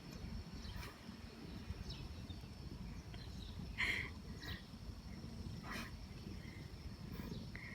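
Quiet outdoor background: a steady high-pitched insect-like hum over a low rumble, with a few short faint sounds, the loudest about four seconds in.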